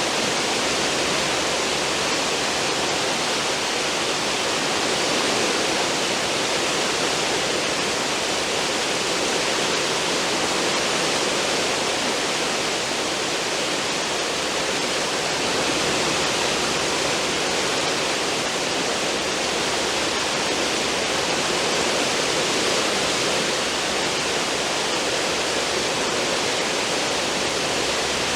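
Churning water of a cruise ship's stern wake, rushing steadily as one dense, even hiss.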